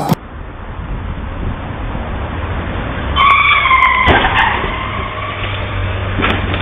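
Dashcam recording of a car's engine and road rumble. About three seconds in, a high tyre squeal lasts about a second and ends in a short knock, typical of a skid in a crash.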